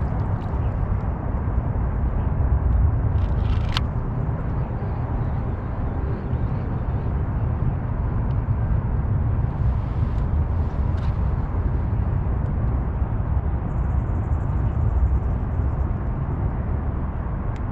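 Steady low rumbling noise of wind buffeting an outdoor action-camera microphone, with one sharp click about four seconds in.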